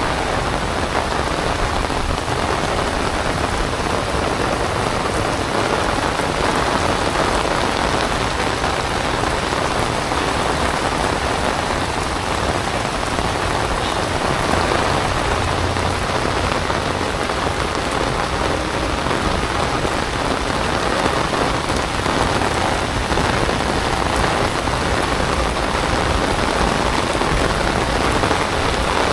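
Heavy rain falling steadily on wet paving and plants and on an umbrella held overhead.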